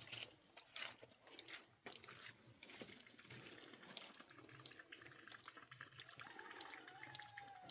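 Faint running or splashing water with scattered light clicks; near the end a faint drawn-out tone that falls slightly in pitch.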